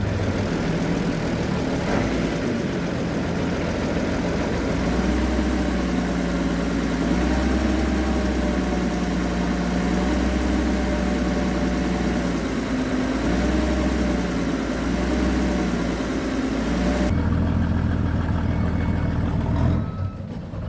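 An engine running steadily at low revs, its hum slowly wavering in pitch, over a constant noisy rush; the sound changes abruptly about 17 seconds in.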